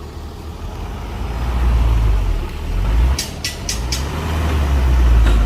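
Heavy diesel engine of earthmoving machinery working under load, a deep rumble that grows louder over the first two seconds. A little after three seconds come four quick, sharp, short hissing clicks.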